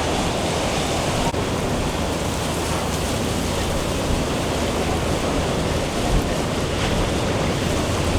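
Category 4 hurricane winds blowing hard: a loud, steady rushing noise with a heavy, unsteady low rumble.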